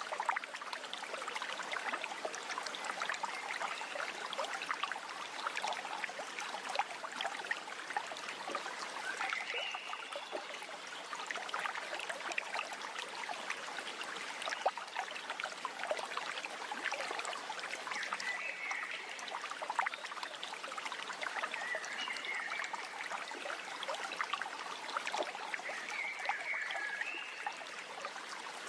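Running water babbling steadily, with a few brief high wavering notes over it now and then.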